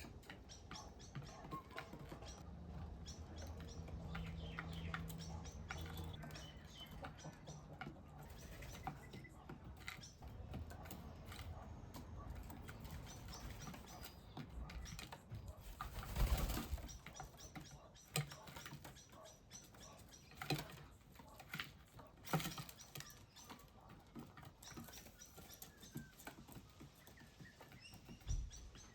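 Small birds chirping repeatedly, with a few short bursts of wing flapping; the loudest comes about halfway through. A low hum is heard briefly near the start.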